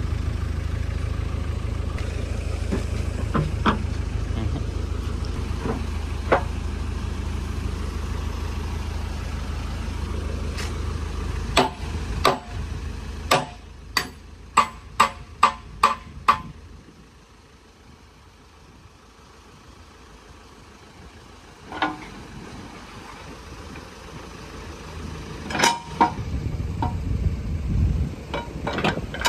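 JCB 3DX backhoe loader's diesel engine idling, then dropping away. Sharp metal-on-metal strikes follow, the loudest a run of six about two a second, then a few single clanks, with the engine hum back near the end.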